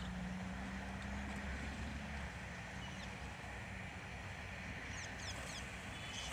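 Outdoor ambience: a steady low hum that fades after about two seconds, over a constant rushing background, with a few short, high chirps near the end.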